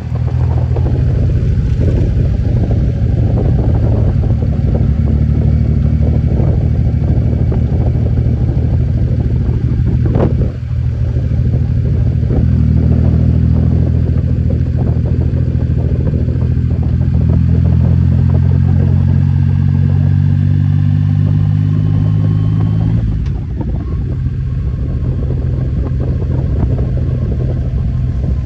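Motorcycle engine running steadily under way, with a brief click and dip in loudness about ten seconds in. About 23 seconds in, the engine note drops and changes.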